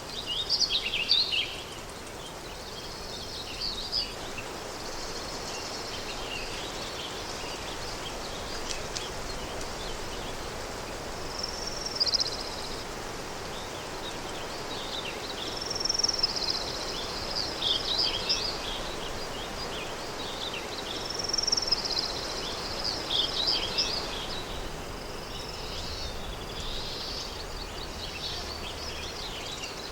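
Countryside ambience: songbirds singing short phrases every few seconds over a steady, soft hiss of wind.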